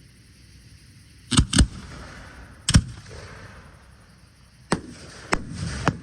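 Aerial fireworks shells bursting in the air. There are six sharp bangs: two close together early on, one more soon after, and three in quicker succession near the end, each followed by a crackling, hissing tail.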